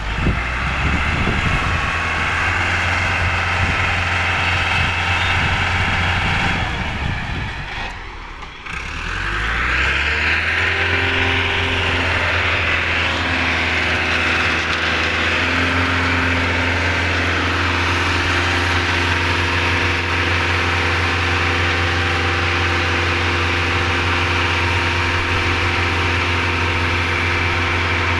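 Concrete mixer machine's engine running steadily. About eight seconds in it dips briefly, then its pitch climbs back up and holds steady.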